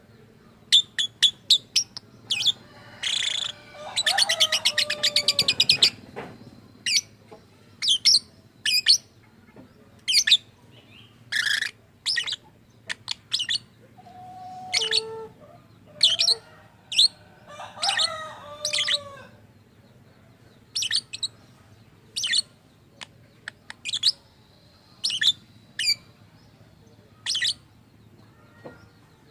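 Lovebird giving short, sharp chirps at irregular intervals, with a fast buzzing trill about four seconds in and lower, warbling chatter around the middle.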